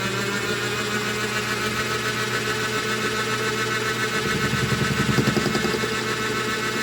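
Lathe running steadily with a motor whine, milling a copper bolt. A little past the middle it turns rougher and louder for about a second and a half as the cutter bites into the copper.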